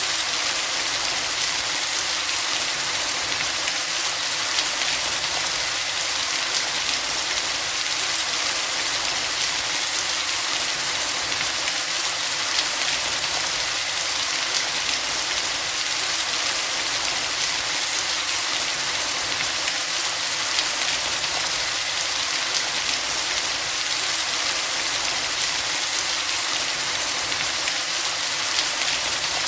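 Steady rain falling: a constant hiss with faint ticks of individual drops striking a surface.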